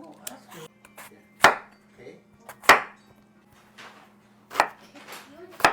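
Kitchen knife chopping vegetables on a cutting board: four loud, separate chops about a second or so apart, with lighter knocks between.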